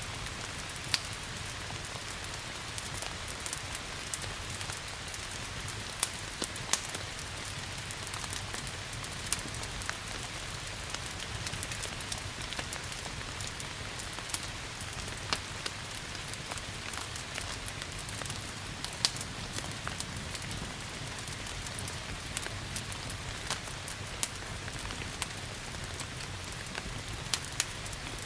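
Steady rain hiss with a wood fire crackling over it, sharp pops and snaps coming at irregular moments.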